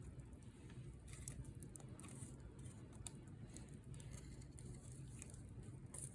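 Wood bonfire crackling faintly, with scattered small irregular pops and snaps over a steady low rumble.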